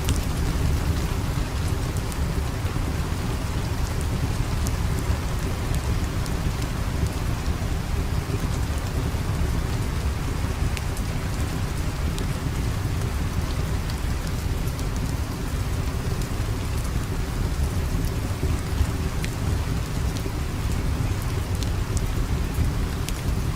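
Steady heavy rain over a deep low rumble, with scattered sharp crackles of a wood fire.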